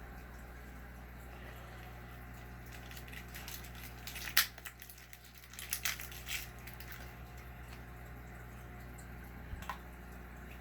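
Steady low hum of running aquarium equipment, with a burst of crackling, clicking handling noises about halfway through, one sharp click among them, and a single click near the end.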